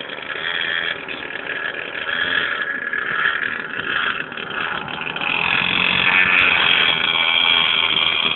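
Mini motorcycle engine running at high revs, a high-pitched buzz that gets louder about five seconds in.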